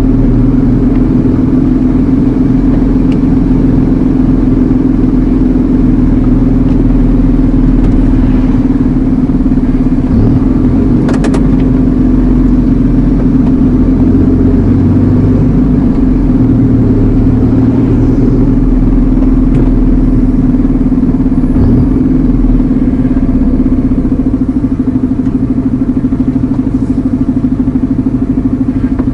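Iveco Eurocargo lorry's diesel engine running steadily, heard from inside the cab as a low, even drone, with one brief click about eleven seconds in.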